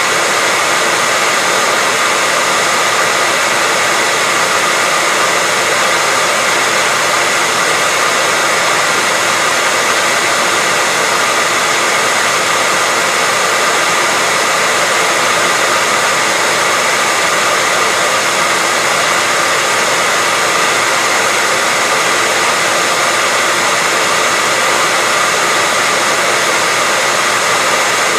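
Hair dryer running, a steady loud rush of air with a faint whine from the motor, with no change in speed or pitch.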